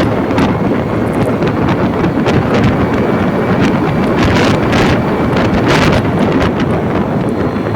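Heavy wind noise on the microphone of a moving vehicle in the rain: a steady loud rush with several brief hissing surges.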